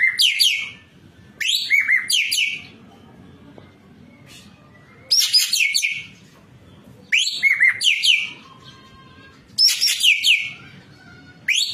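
Ekek keling songbird singing in loud phrases about a second long, each a quick run of rising and falling whistled notes. The phrases repeat about every two seconds, with one longer pause a few seconds in.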